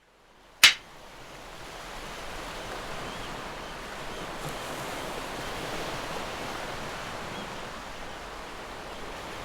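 Steady sea surf with wind, fading in over the first couple of seconds, after a single sharp click about half a second in.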